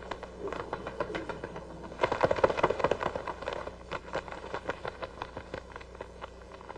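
Birds' wings flapping: a quick, uneven run of soft claps, thickest about two seconds in and thinning out near the end, over a steady low hum.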